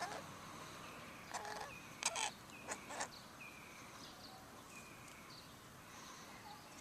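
Faint outdoor ambience with a few short bird calls: brief thin chirps, and a few sharper, harsher calls between one and three seconds in.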